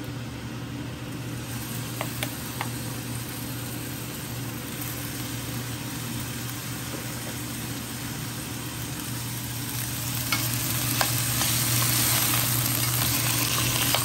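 Diced tomatoes sizzling in hot oil with sautéing onions, garlic and ginger in a stainless steel pan, with a few sharp clicks of a spoon against the pan. The sizzle gets louder about ten seconds in as the tomatoes are stirred. A steady low hum runs underneath.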